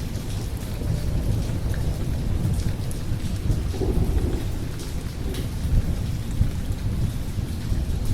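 Thunderstorm: steady rain with a continuous deep rumble of thunder underneath.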